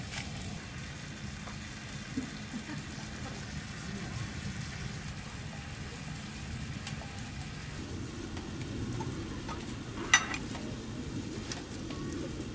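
Marinated duck sizzling in a frying pan, a steady low frying noise. A single sharp clack about ten seconds in.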